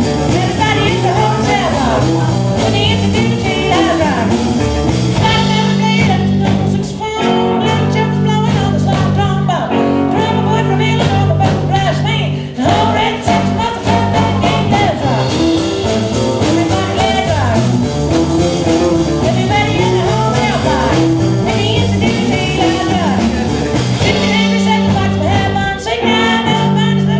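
Live band playing a blues-rock number with singing, guitar and bass.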